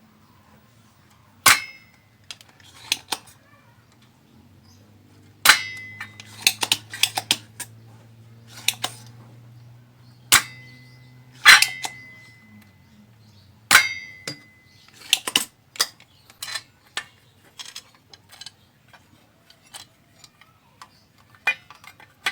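Metal tools and parts clicking and clinking while a transistor is worked on in a power amplifier: a string of sharp clicks, several leaving a short ringing tone, with a faint low hum through the middle.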